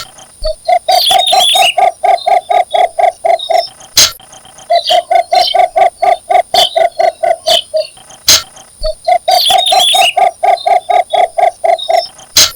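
Cinnamon bittern giving its mating call: a steady run of low, evenly spaced croaking notes, about four or five a second, in three series of about three seconds each with short pauses between. Sharp clicks fall between the series, and a brief higher chirping comes twice.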